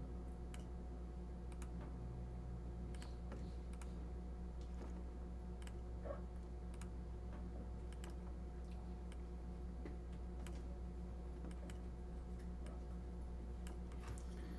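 Scattered single clicks from a computer mouse, a dozen or so spread irregularly, over a steady low hum.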